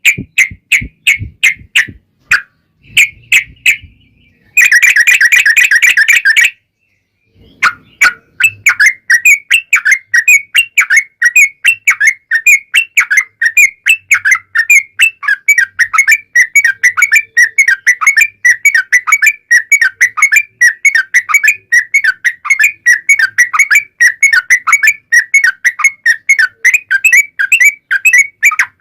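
Yellow-vented bulbul (trucukan) song: separate chirps first, then a dense loud stretch of about two seconds, a brief pause, and from about eight seconds in a long unbroken run of rapid chattering notes, the long rolling song ('ropel panjang') prized in this bird.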